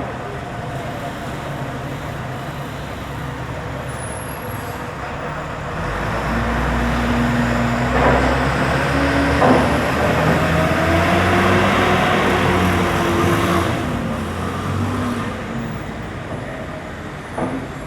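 Street traffic, with a heavy road vehicle such as a bus or truck passing close by: its engine rumble swells from about six seconds in and fades after fourteen, with two sharp knocks near the middle.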